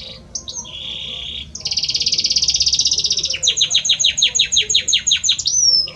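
Male Belgian canary singing: rapid trilled phrases, then a run of quick downward-sweeping notes, about five a second, ending on a drawn-out whistle.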